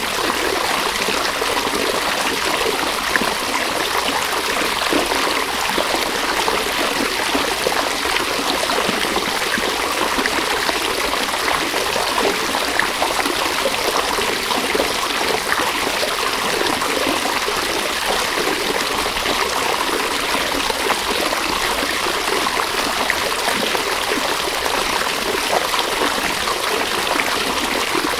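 A river flowing: a steady rush and trickle of running water that neither rises nor falls.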